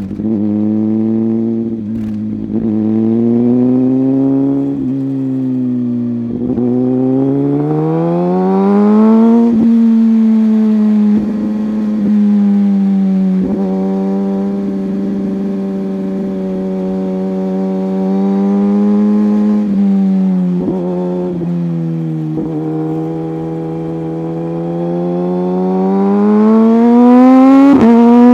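Motorcycle engine running under way, its pitch climbing as it accelerates about six to ten seconds in and again near the end, holding steady in between.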